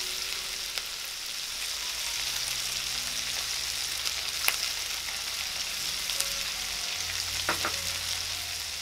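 Sliced onions, tomatoes, banana peppers and green chillies frying in hot oil in a wok: a steady sizzle with scattered crackling pops.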